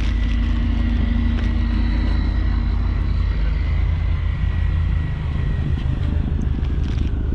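A vehicle engine running steadily, a low rumble with a faint high whine above it; the engine note shifts slightly about five seconds in.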